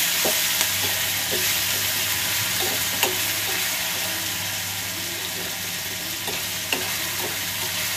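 Crushed garlic, green chilli and cumin sizzling in hot oil in a kadhai as a tempering, stirred with a steel spoon that clicks against the pan a few times. The sizzle is steady and eases off slightly.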